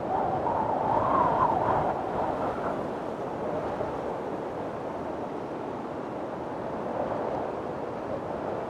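Strong wind blowing in a storm, a steady rush with a louder, higher-pitched gust about a second in that then eases off.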